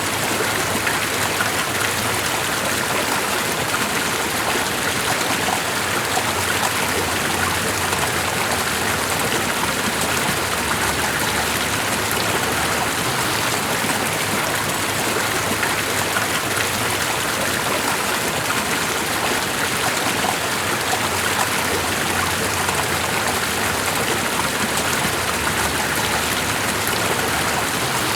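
Steady running water with no change in level, most like a flowing stream.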